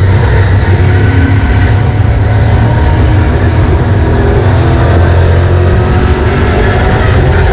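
Super stock race car's engine running at speed on track: a loud, steady, low drone.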